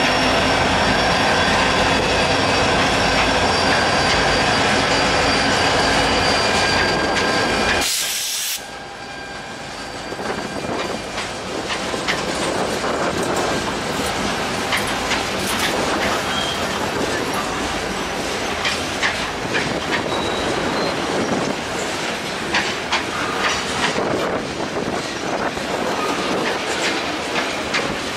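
EMD SD40-2 diesel locomotives, with 16-cylinder two-stroke engines, running as they pass, then a freight train's covered hoppers and tank cars rolling by. About eight seconds in, after a brief hiss, the engine sound drops away sharply and the wheels' clicking and clanking over the rail joints takes over.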